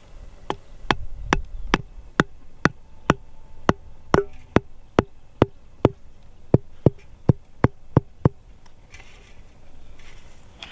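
A steady run of sharp knocks, about two a second and some eighteen in all, each with a short ringing note, like a tool striking repeatedly while something is being made. The knocks stop a little before the end.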